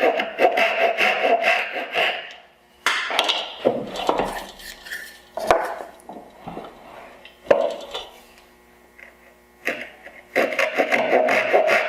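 Hand saw cutting into a wooden board for dovetails, quick back-and-forth strokes for about two seconds, then a few knocks and scrapes as the board is handled, and sawing again near the end.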